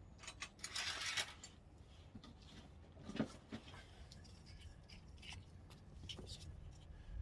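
Light clicks and scrapes of brake pads and small metal brake parts being handled, with a short hiss about a second in.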